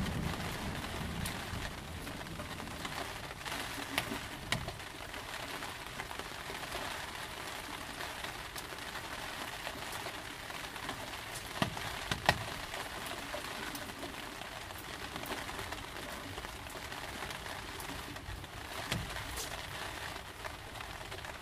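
Steady rain falling on a surface, with a few single louder drops or drips standing out now and then.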